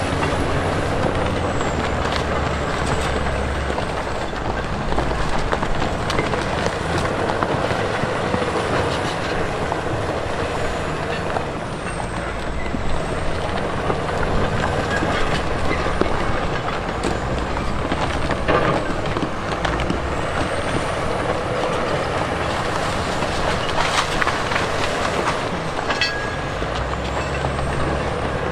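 Heavy diesel earthmoving machinery working: an engine running steadily under load, with scattered knocks and clatter of metal and rock throughout.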